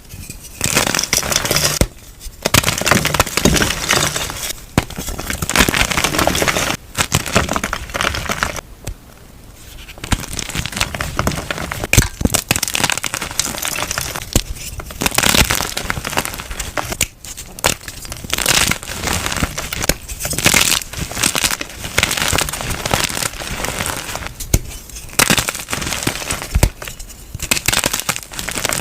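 Close-miked biting and chewing of soft dyed chalk: repeated crunching and crackling in spells of a few seconds, with sharp snaps between short pauses.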